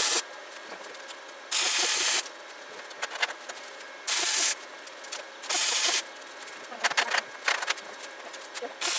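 Short bursts of welding, each a steady hiss of about half a second, repeated several times a few seconds apart, with a spell of sharp crackling partway through: tack welds on a lawn mower differential.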